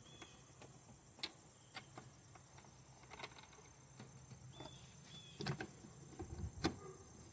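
Faint, scattered clicks and knocks of small objects being handled, over a steady, thin, high-pitched whine.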